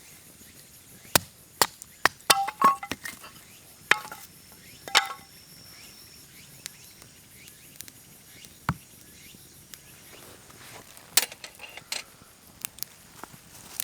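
A series of sharp knocks and clinks from objects being handled, a few of them with a brief metallic ring, clustered in the first five seconds and scattered more sparsely afterwards, over faint steady insect sound.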